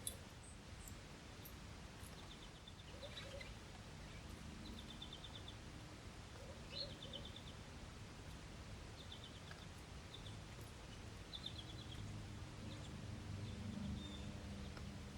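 Small birds calling at a seed feeder: short, rapid chattering trills repeated every second or two, with a few higher chips, over a low steady noise.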